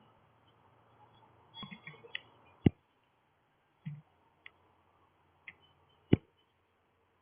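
A few scattered sharp clicks and taps, two of them loud, with a couple of soft low thumps between them.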